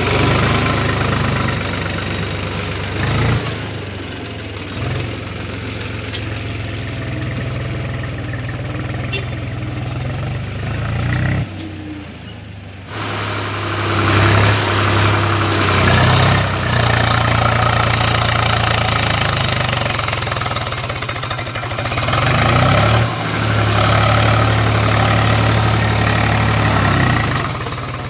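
Tractor's diesel engine running with a steady low throb. It falls away briefly about twelve seconds in, then comes back louder.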